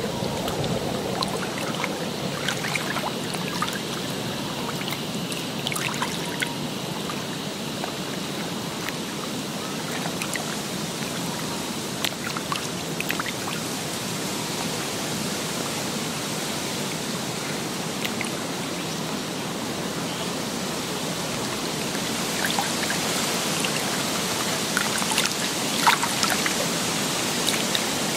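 Steady running water, with scattered small clicks and drips, most of them near the end.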